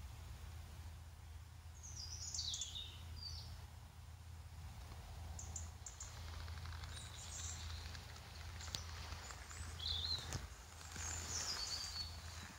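Small birds calling in the trees: several short, high chirping and twittering phrases, a few seconds apart, over a steady low background hum, with a couple of faint clicks near the end.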